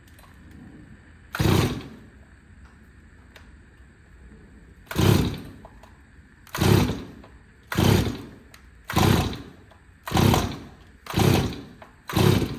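Stihl 024 chainsaw being pull-started on full choke: eight quick yanks of the recoil starter rope, one about a second and a half in and then seven about a second apart. The engine turns over with each pull but does not catch and run.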